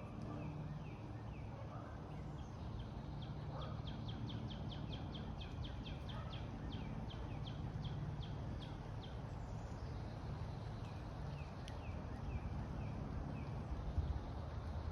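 A songbird singing a long, rapid series of short down-slurred notes, about four a second, with shorter runs before and after, over a steady low background rumble. A few low knocks come near the end.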